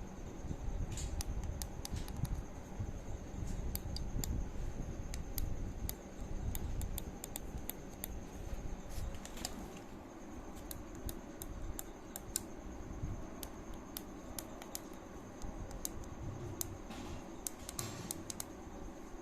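Irregular small clicks and taps from a remote control being handled and worked on, scattered through, over a steady low hum and a faint steady high whine.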